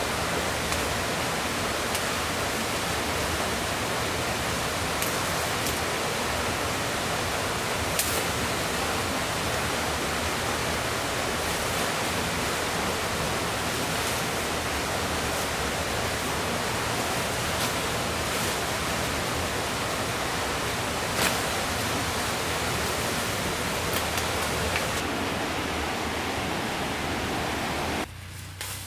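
Rushing river water, a steady hiss that cuts off abruptly near the end.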